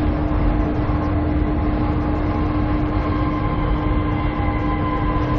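Steady interior running noise of a Queensland Rail ICE passenger train carriage: an even rumble with a constant low hum underneath, unchanging throughout.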